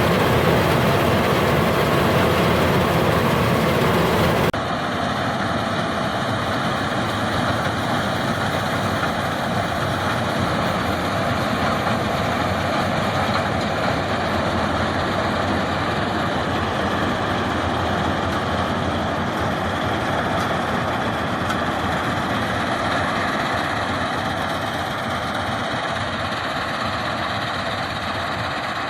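Combine harvester's heavy diesel engine and machinery running steadily. About four and a half seconds in the sound cuts suddenly to a slightly quieter, steady drone.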